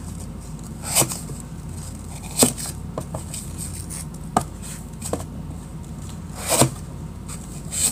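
A kitchen knife cutting a melamine-foam magic eraser into cubes. There is a short, sharp knock with each cut as the blade meets the surface beneath, about six times, irregularly spaced.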